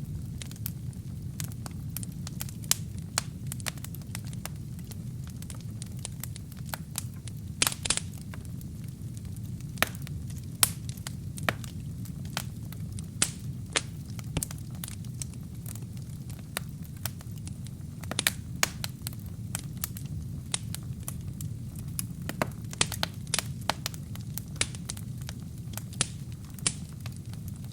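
Wood fire burning in a fireplace: a steady low rumble of flames under frequent irregular crackles and sharp pops, with a longer burst of crackling about eight seconds in.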